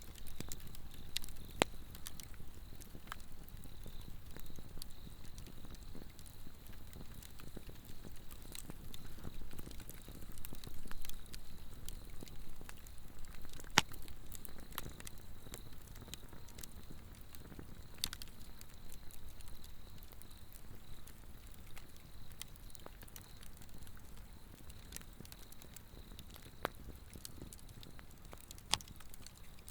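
A Swedish torch (an upright split log burning from the inside) crackling, with irregular sharp pops over a low rumble of flame. Insects call in a steady high trill behind it.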